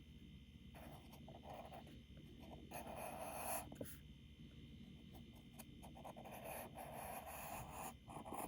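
Charcoal rubbed across drawing paper in several shading strokes of about a second each, a faint scratchy rasp with short pauses between.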